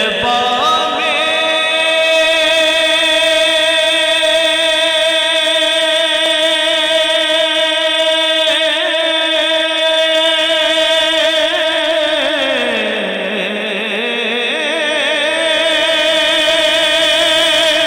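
Male naat reciter singing one long held note, steady for about twelve seconds, then sliding down in pitch and wavering with vibrato near the end.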